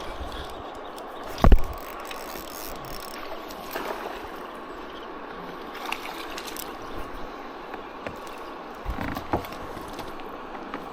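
Steady rush of river water with a few knocks and handling noises from the kayak and gear, the loudest a single thump about a second and a half in.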